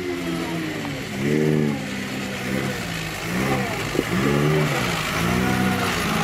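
Vintage car engine revving up and down in repeated swells, about once a second, as the throttle is worked to find grip on a slippery, muddy hill restart. A sharp knock sounds about four seconds in.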